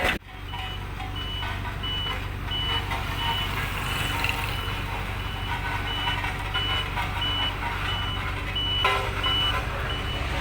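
Truck reversing alarm beeping at an even pace, about three short high beeps every two seconds, over the steady low running of the truck's engine.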